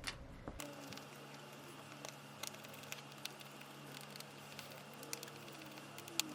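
Faint, scattered light clicks and taps of small hand tools working on a phone, over a steady low hum.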